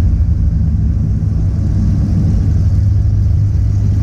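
Car engine running at a steady speed, a continuous low rumble with no clear rise or fall in revs.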